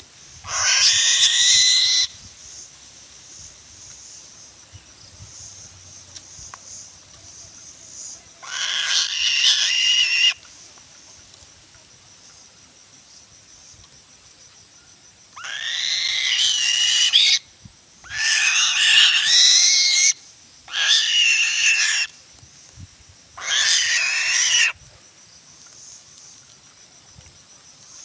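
An eagle screaming: six loud, harsh screeches of one to two seconds each, several rising in pitch at the start, with a faint steady chirring of insects between them.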